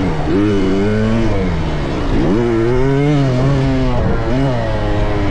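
Motocross dirt bike engine revving up and off over and over as it rides the track, its pitch climbing and dropping, with a sharp dip and a fast climb about two seconds in.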